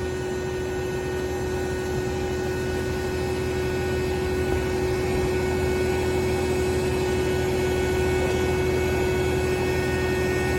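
A motor vehicle's engine running with a steady drone and a constant tone, growing a little louder over the first few seconds.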